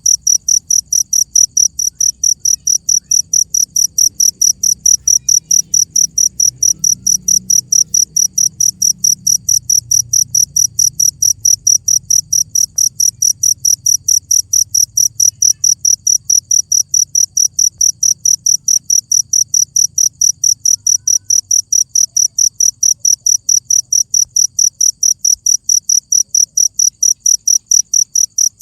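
Cricket chirping in a steady, even rhythm, several high-pitched chirps a second without a break.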